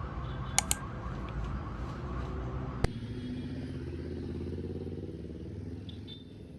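A motor vehicle's engine running with a low rumble. Two sharp clicks come just before one second in, and another just before three seconds in.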